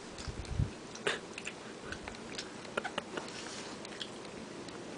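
A person chewing a jelly bean close to the microphone: scattered faint clicks and smacks of the mouth.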